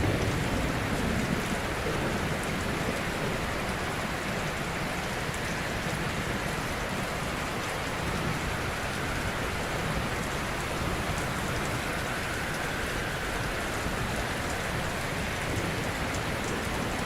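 Ocean surf: a continuous wash of gently breaking waves, a steady hiss with a slightly fuller low rumble in the first couple of seconds.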